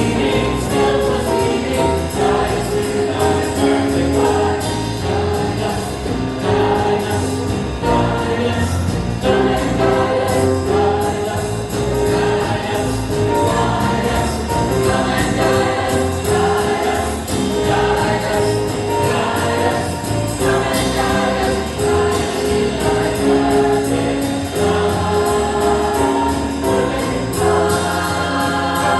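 Choir singing a jazz-style Christmas number with instrumental accompaniment, steady and continuous.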